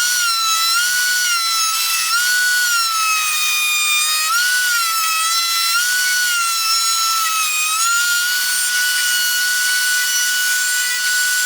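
High-speed power tool motor whining steadily and cutting, its pitch sagging briefly and recovering every second or two as the bit or blade bites into the work.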